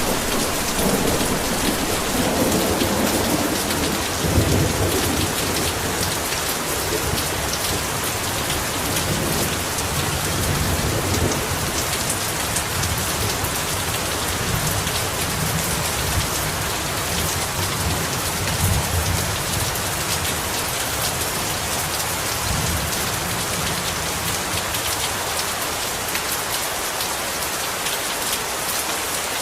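Heavy rain falling steadily on surfaces, a dense even hiss. Low thunder rumbles under it through the first two-thirds and dies away.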